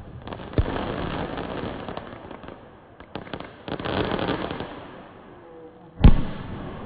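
Aerial fireworks bursting: sharp bangs, each followed by a spell of dense crackling, with the loudest bang about six seconds in.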